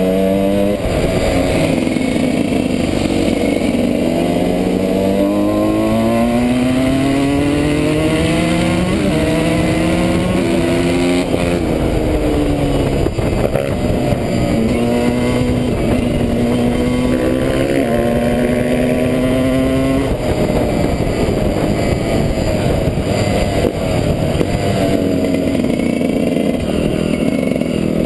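Off-road motorcycle engine under hard riding, its pitch climbing and dropping again and again as the throttle opens and closes and the gears change, with a few steadier stretches of near-constant speed.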